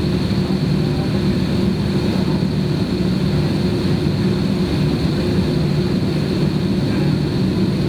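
Jet engines of an Airbus airliner running steadily during takeoff, heard inside the passenger cabin as an even, loud drone with a low hum.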